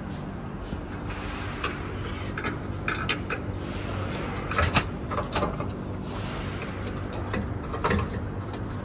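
Scattered light metallic clinks and knocks as steel exhaust pipe sections and a clamp are handled and fitted together, over a steady low background hum.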